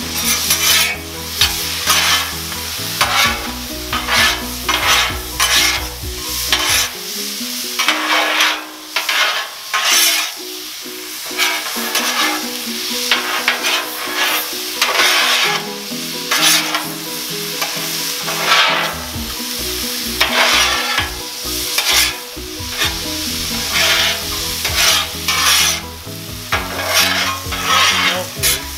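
Metal spatulas scraping and turning vegetables on a hot steel Blackstone flat-top griddle, in many short irregular strokes, over the steady sizzle of the vegetables frying.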